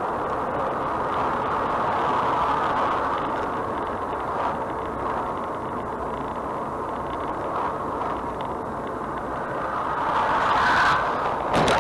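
Steady driving noise of a moving vehicle, engine and road rumble, growing somewhat louder near the end, where a single sharp crack or knock is heard.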